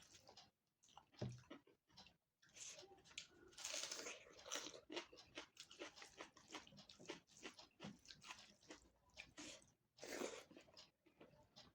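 A person chewing a mouthful of food with frequent crunchy bites and wet mouth sounds, close and faint.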